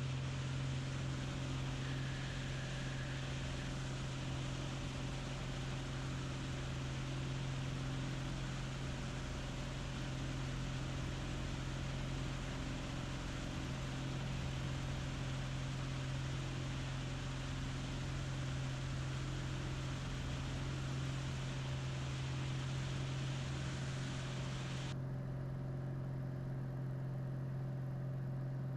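Piper single-engine piston airplane's engine and propeller droning steadily at climb power just after takeoff, with one strong low hum. Near the end the higher hiss drops away suddenly while the low drone carries on.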